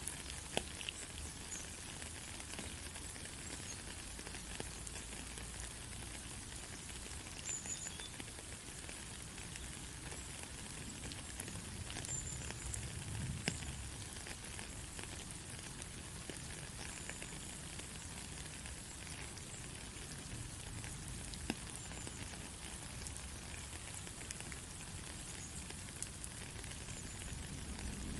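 Steady rain hiss with scattered light drop ticks, even throughout.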